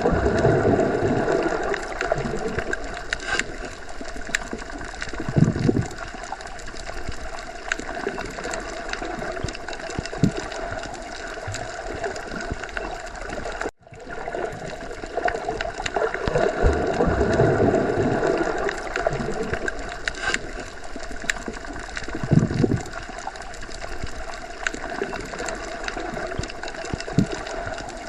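Underwater ambience: continuous gurgling, bubbling water with slow low swells and scattered small clicks. It cuts out to silence for a split second just under halfway through.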